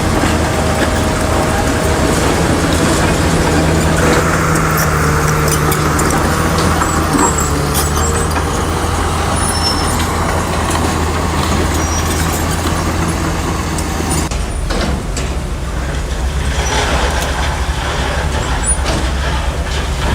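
Heavy diesel engine of earthmoving machinery running steadily, with scattered metallic clanks; the engine note changes about fourteen seconds in.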